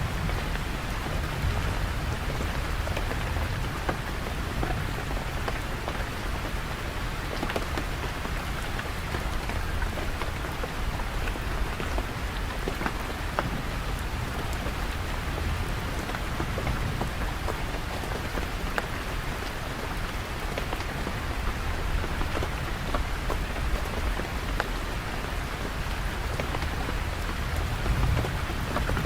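Steady rain falling and pattering on surfaces, with scattered drop ticks and a constant low rumble underneath.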